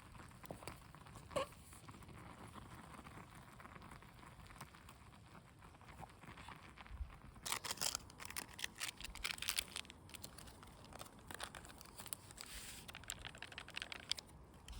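Crinkling and rustling: a single click early, then dense clusters of quick crackly rustles from about halfway in for several seconds, over a faint steady background.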